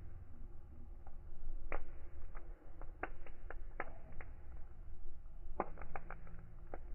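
Wood fire burning, with irregular sharp crackles and pops over a low steady rumble; a quick cluster of pops comes near the end.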